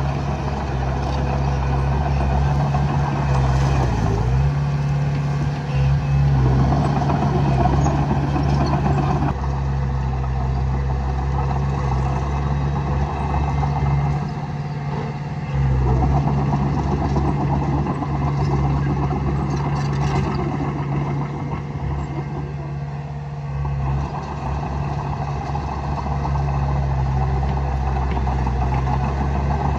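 Komatsu D20A bulldozer's diesel engine running steadily while the dozer works. The engine note dips briefly about four seconds in and changes again around fifteen seconds in.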